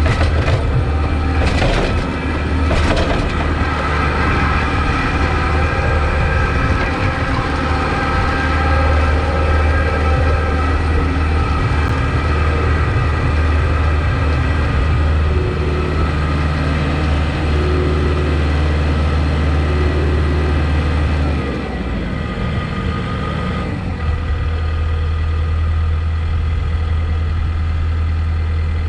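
Kubota MX5200 tractor's diesel engine running steadily, with a few sharp knocks in the first few seconds. About 21 seconds in, the engine note drops and settles lower.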